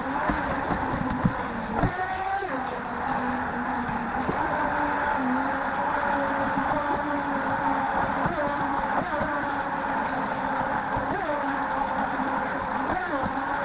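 RC jet boat's motor and water-jet drive heard from on board, a steady whine that swoops up and down in pitch several times as the throttle changes, over rushing water and wind noise.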